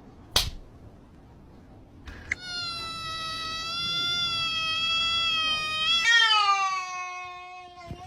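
A sharp click, then a cat's long drawn-out meow starting about two seconds in, held steady for several seconds before dropping in pitch near the end and trailing on, falling slowly.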